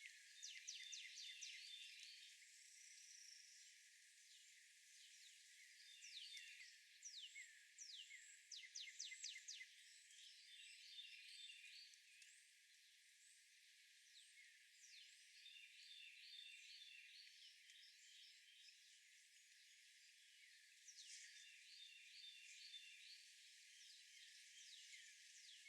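Faint birdsong: a small songbird repeats a phrase of quick, high downward-sweeping notes followed by a rapid stepped trill several times, over a steady outdoor hiss.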